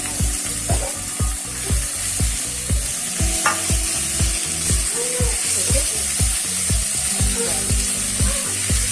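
Frying sizzle and stirring as mashed boiled potatoes are mixed into hot oil with sautéed onion and spices in a pan, under background music with a steady beat of about two a second.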